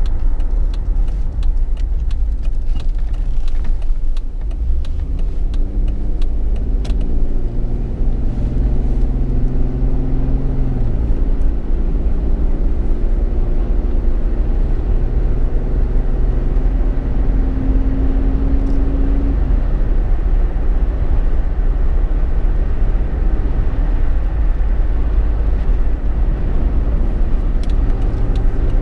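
Inside a Jeep Wrangler JK's cabin on the move: steady low road rumble and engine drone. About five seconds in the engine note rises as the Jeep accelerates, holds steady for a while, then fades back under the road noise.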